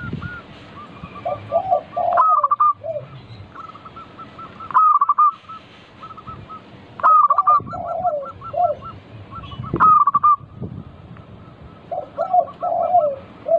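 Zebra dove (perkutut) singing: repeated cooing phrases, one every two to three seconds, with a lower run of notes between them.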